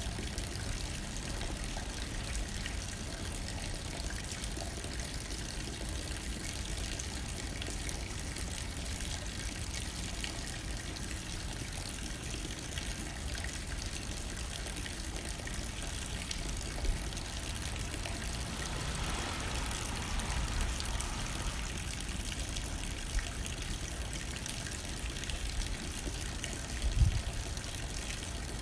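Steady rain hitting a window, with light wind rumbling underneath. A few short knocks stand out, the loudest a low thump near the end.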